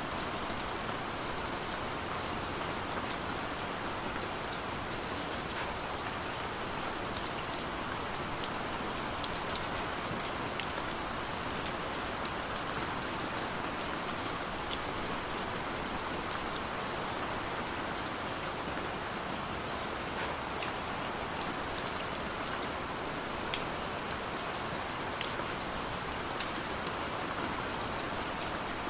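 Steady gentle rain, a constant hiss with many small individual drops ticking.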